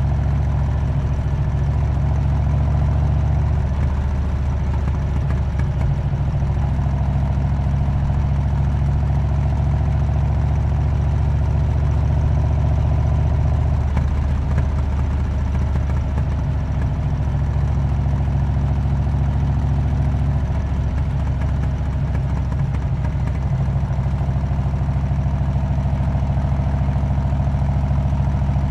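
Harley-Davidson Road King's V-twin engine running steadily through a Cobra aftermarket exhaust, a deep, even exhaust note without revving.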